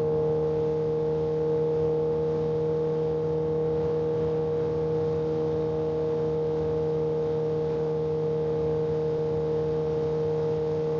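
Kawasaki ZX-10R inline-four engine running at a steady speed, holding one even pitch with no revving or gear changes, over a light hiss of wind.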